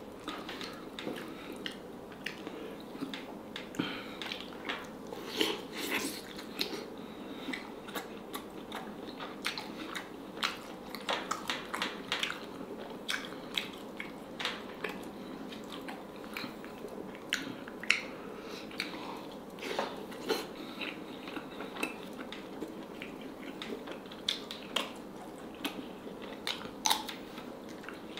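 Close-up chewing and biting of steamed black-skinned H'Mông chicken, wet mouth sounds with many short clicks and small crunches scattered throughout.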